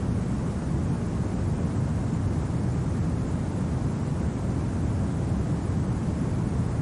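Steady winter wind: an even, low noise without gusts, clicks or crackles.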